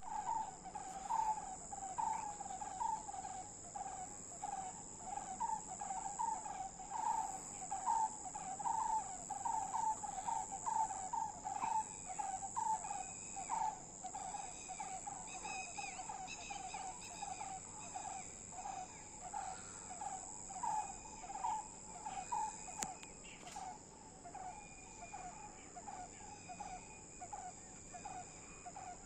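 Steady high-pitched drone of insects such as cicadas or crickets, with a bird repeating a short low note over and over in an even rhythm, and a few higher bird notes in the middle.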